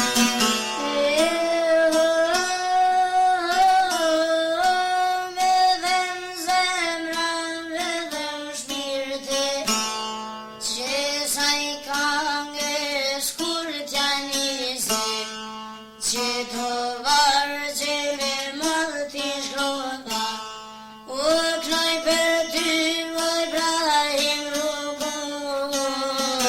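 Albanian folk song: a girl singing long, ornamented melodic lines over a plucked-string accompaniment, with short breaks between phrases.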